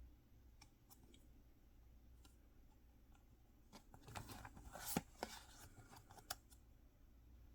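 Faint handling of mystery-box packaging: soft clicks and crinkling, busiest just past the middle, with a sharp click a little later.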